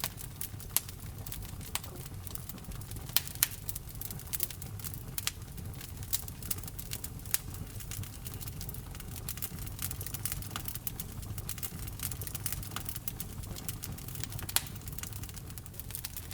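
Wood fire burning in a fireplace: a steady low rush of flames with irregular sharp crackles and pops from the burning logs, a few louder snaps about three seconds in and near the end.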